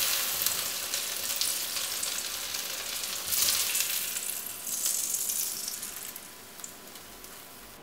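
Egg-dipped bread sandwiches sizzling in hot oil in a frying pan as they are lifted out with a spatula. The sizzle swells a little twice and fades away near the end.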